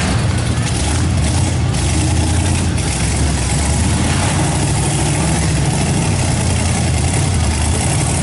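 A mud buggy's engine running loud and steady, with a broad hiss over it.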